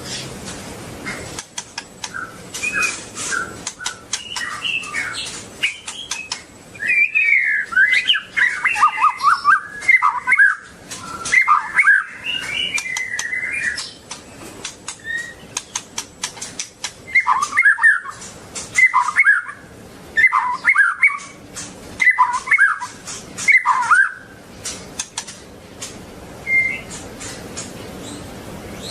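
White-rumped shama singing: a long run of varied warbled and whistled phrases, then a pause and five short repeated phrases, with many sharp clicks and taps throughout.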